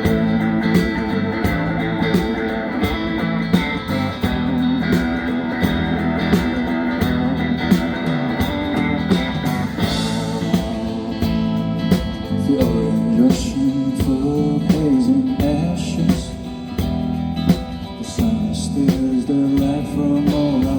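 Live band music: a guitar-led song over a steady drum beat, with a singer's voice coming in a little past halfway.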